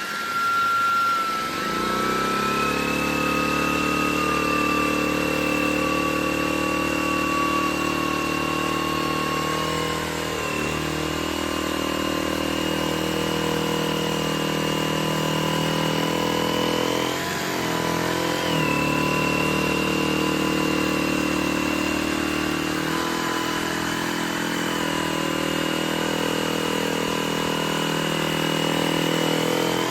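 Shark Detect Clean & Empty cordless vacuum's motor running steadily with a high whine. Its pitch wavers briefly a little past halfway through.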